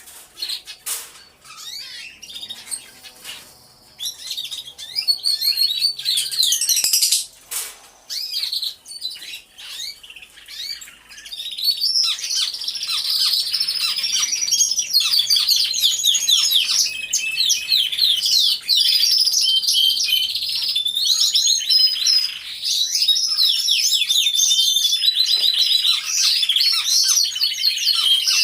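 Flock of domestic canaries singing in an aviary: high, rapid trills and warbles. For about the first eleven seconds the song is scattered, with gaps and a few sharp clicks. From about twelve seconds in, many birds sing at once in a dense, unbroken chorus.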